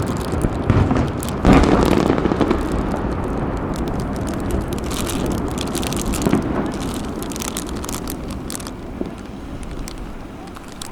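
Fireworks: an aerial shell bursts with a loud boom about a second and a half in, followed by a few seconds of crackling, over a low rumble that slowly fades.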